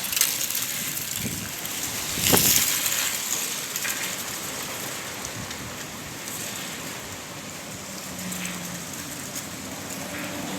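Strong wind blowing with rain, a steady rushing noise that swells into a louder gust about two seconds in.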